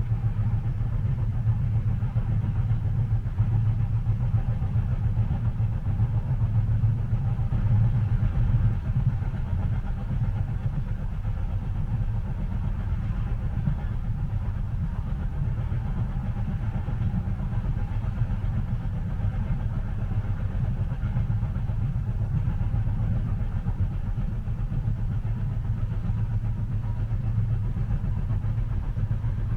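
Steady low rumble of a passenger train running, heard from inside the carriage, with no distinct wheel clicks or other events.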